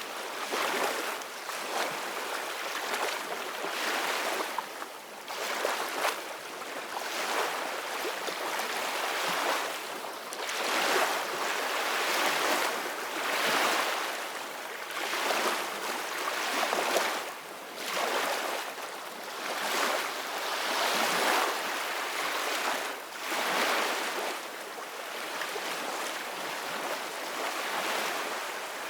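Open-sea waves washing and splashing, the noise swelling and easing every one to three seconds, with wind.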